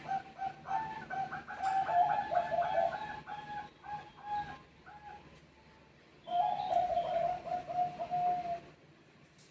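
Zebra doves (Bangkok perkutut) cooing: a fast series of short staccato notes, a pause of about a second, then another cooing phrase.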